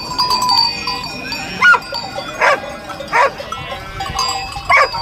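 A large flock of sheep bleating: about four loud bleats stand out over a continuous background of the flock's fainter calls.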